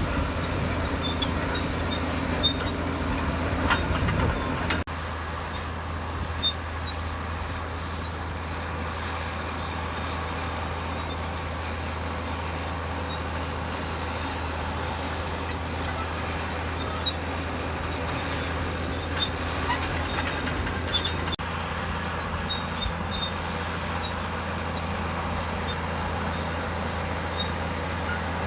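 Heavy diesel engine of a Komatsu D65EX crawler bulldozer running steadily with a deep hum. It is louder for the first five seconds, then drops suddenly to a slightly lower level, with scattered faint clicks and knocks.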